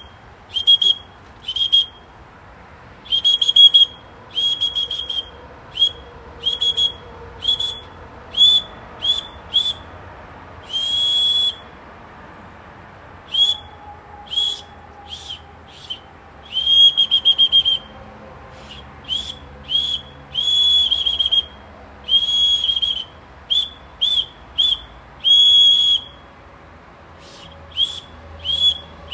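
A high-pitched whistle blown in bird-like chirps: runs of short, quick notes with a few longer held notes in between.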